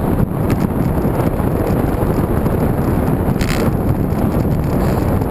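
Wind buffeting the microphone of a camera carried on a moving bicycle: a loud, steady noise concentrated in the low end.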